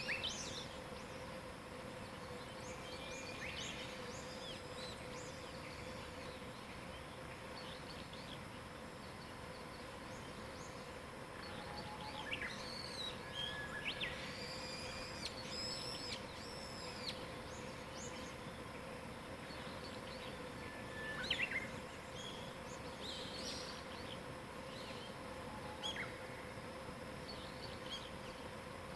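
Wild birds singing and calling on and off, several short whistles and trills, busiest around the middle, over a steady outdoor hiss and a faint steady hum.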